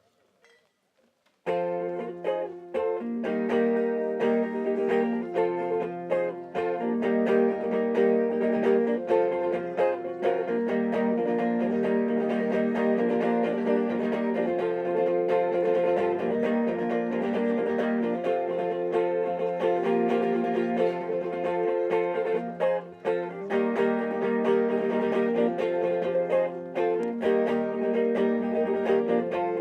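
Acoustic guitar playing chords in a steady, unbroken piece of music that starts about a second and a half in.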